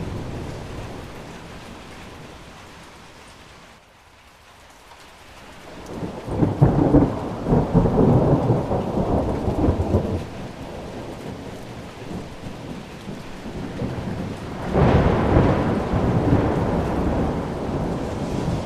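Heavy rain falling steadily, with two rolls of thunder: a low rumble about six seconds in that lasts around four seconds, and a second that breaks in sharply near fifteen seconds and rumbles on. The rain dips briefly about four seconds in.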